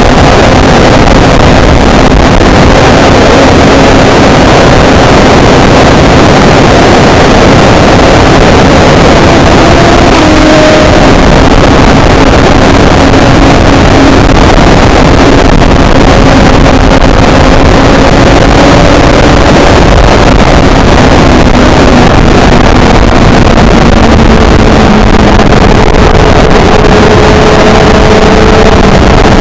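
Motorcycle engine running at a steady speed, its pitch holding nearly level and easing slightly lower near the end, under loud wind rush on the on-bike camera's microphone.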